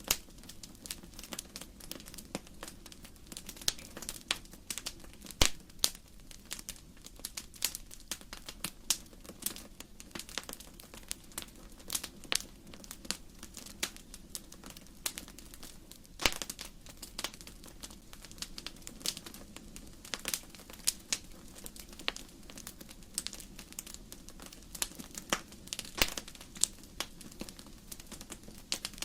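Firewood burning in a fireplace: dense, irregular crackling and snapping of the logs over a low steady rumble of the fire, with a few louder pops scattered through.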